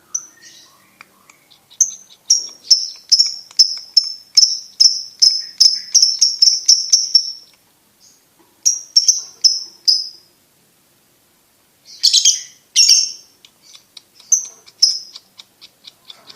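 Lovebird singing: a fast run of high, sharp chirps at about three a second for some five seconds, a shorter run after a brief pause, then two harsher, rougher calls and a few softer chirps near the end.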